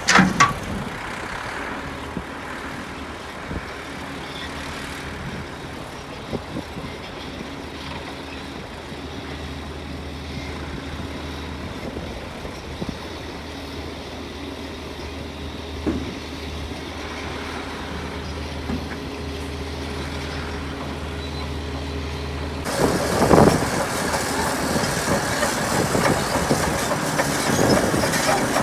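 Heavy diesel earthmoving machinery running steadily, with occasional knocks and clanks. Near the end the sound changes abruptly to louder clattering and scraping.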